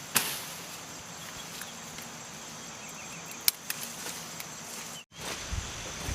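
Rural outdoor ambience: insects keep up a steady high buzz, a bird gives a few faint short chirps, and two sharp knocks stand out, one right at the start and a louder one about three and a half seconds in.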